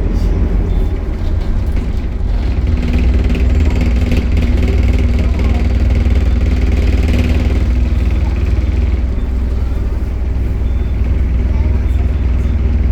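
Optare Solo bus running with its engine and cooling fan, a loud steady low drone, with a steady whirring tone from about three to seven seconds in.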